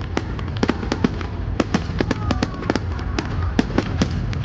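Fireworks display going off: many sharp bangs and pops in quick, irregular succession over a steady low rumble, with a few faint whistles about halfway through.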